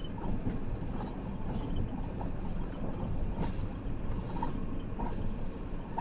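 Steady road and engine noise inside the cab of a converted Ford ambulance while it drives, with a few faint clicks and rattles.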